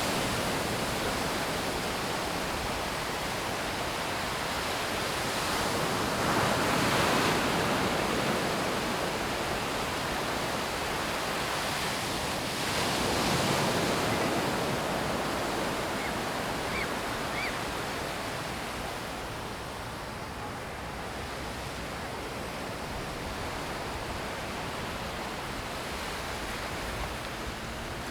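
Sea surf: waves breaking and washing in as a steady rushing hiss, swelling louder twice as bigger waves come in, about a quarter and a half of the way through.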